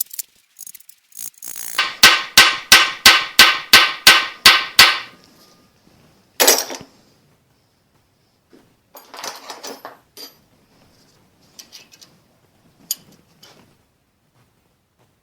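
A hammer striking metal in a steady run of nine ringing blows, about three a second, followed a second or so later by one harsher clatter and then scattered light metallic clinks.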